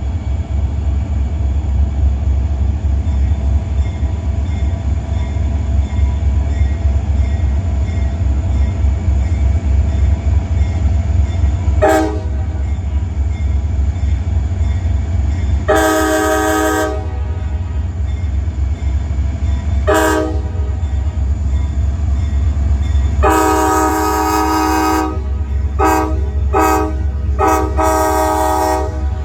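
Idling EMD SD40-2 diesel locomotives with a steady low rumble, the locomotive's air horn sounding a chord of several notes in a series of blasts: a short toot, a longer blast, another short toot, then a long blast followed by three shorter ones near the end, as the freight train gets ready to depart.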